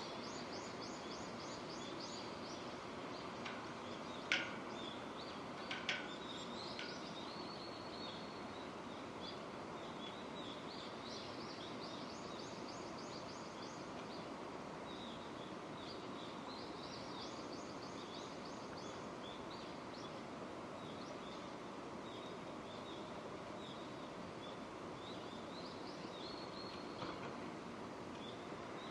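Steady rain falling, with birds chirping in repeated high trills over it. Two sharp taps stand out, about four and six seconds in.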